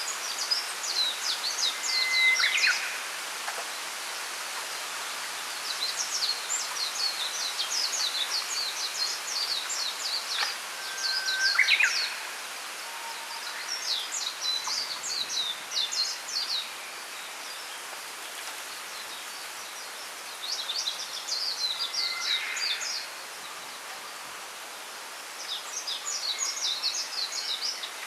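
Small songbirds singing in repeated phrases of rapid, high twittering notes, each phrase a few seconds long, with a short held whistle now and then, over a steady background hiss.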